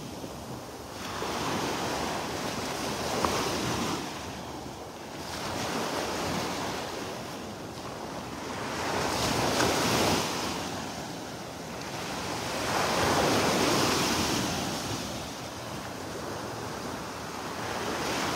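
Surf on a beach: waves breaking and washing up the shore, swelling and fading about every three to four seconds.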